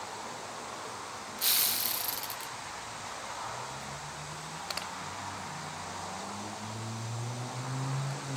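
A short, loud hiss about a second and a half in, then the low hum of a passing motor vehicle, rising in pitch and growing louder toward the end.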